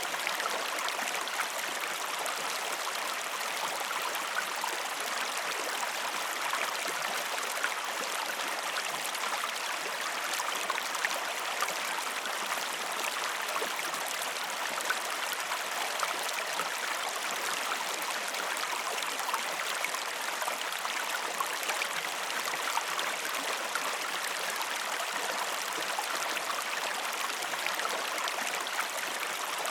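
A river or stream flowing steadily, with a constant rushing and small babbling splashes.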